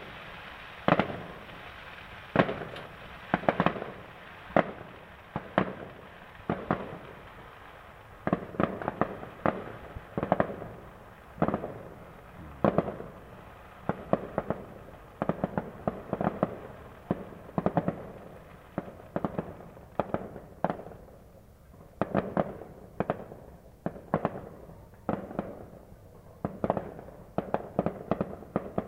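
New Year fireworks going off: many sharp bangs at irregular intervals, often in quick clusters, with a lighter run of smaller pops toward the end.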